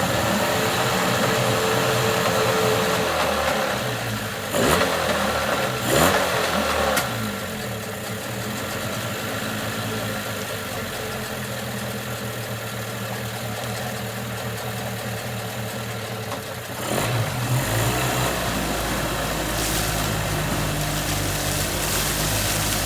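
Outboard motor running just after starting. It is blipped up and down a few times about five to seven seconds in, then runs steadily, with the revs rising again about seventeen seconds in.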